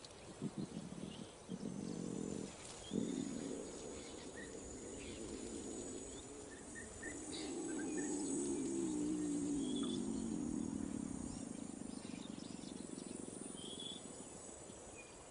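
Lion giving low, pitched calls: a few short ones in the first three seconds, then one long wavering call from about seven to twelve seconds in. Faint bird chirps sound in the background.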